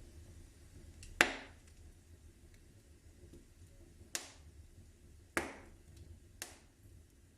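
Wood fire in a fireplace crackling: four sharp pops, the loudest about a second in, over a faint steady low rumble.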